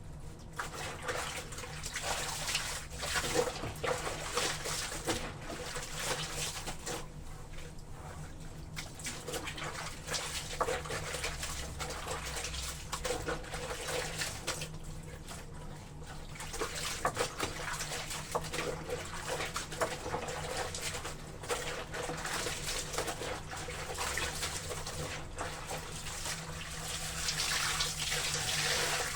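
Wet laundry sloshing and splashing in a tub of water, in uneven bursts, as the clothes are worked by hand-washing.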